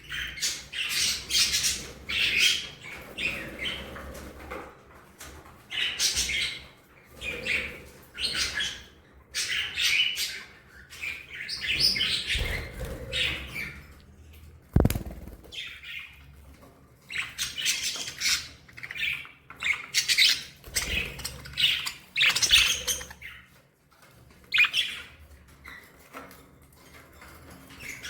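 Budgerigars chirping and warbling in irregular bursts, with occasional harsher squawks and wing flaps. A single sharp thump comes about halfway through.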